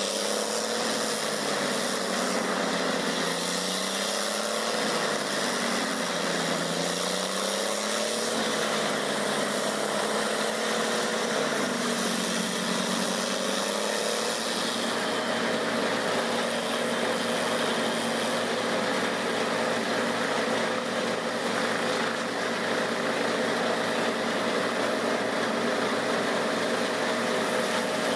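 Engine of a large wood grinder running, its pitch sagging and recovering several times under load in the first half, then holding steady.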